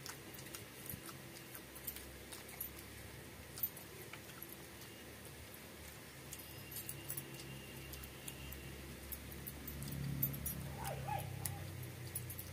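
Close-up eating sounds of rice and curry eaten by hand: scattered soft clicks of chewing and lip smacks, with a brief pitched sound near the end.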